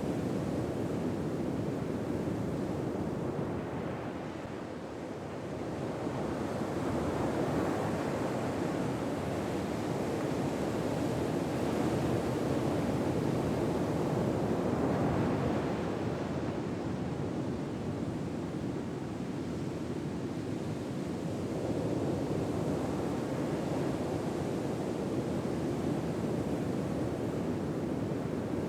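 Ocean waves washing on a shore: a steady wash of surf that slowly swells and eases every several seconds.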